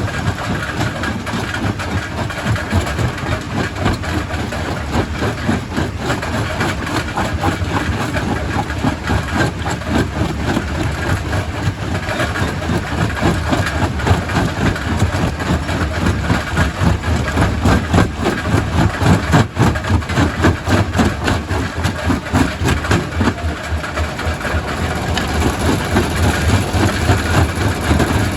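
Primary rock crusher running, a steady heavy rumble with a dense, continuous clatter of knocks as rock is broken.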